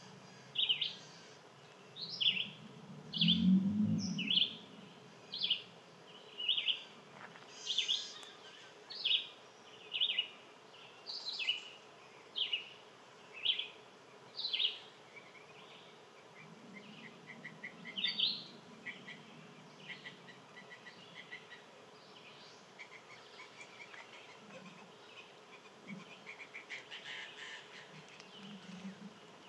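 A songbird calling a series of short, falling high notes, about one every two-thirds of a second, then fainter rapid trills in the second half. An insect buzzes past the microphone about three seconds in and again midway.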